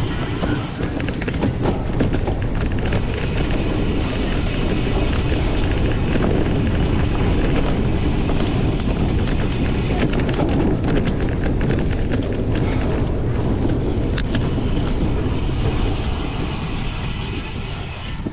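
Wind buffeting the microphone of a cyclocross racer's onboard camera, a loud steady rush, with scattered rattles and knocks from the bike over rough ground.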